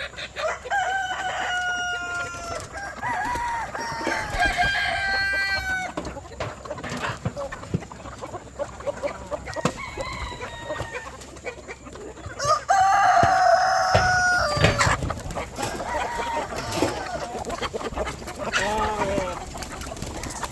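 A chicken flock clucking, with roosters crowing several times: long held crows about a second in and again around four to six seconds, and the loudest crow about two-thirds of the way through.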